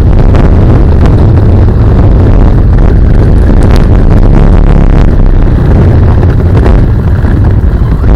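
Traxxas Rustler RC stadium truck driving, heard from a camera mounted on it: a loud, distorted rumble of wind buffeting, motor and drivetrain, with a few knocks from bumps a few seconds in.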